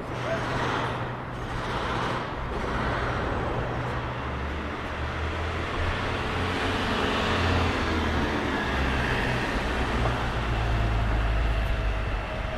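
City street traffic: a steady background of passing motor vehicles, with a low engine hum that grows louder in the second half as a vehicle runs close by.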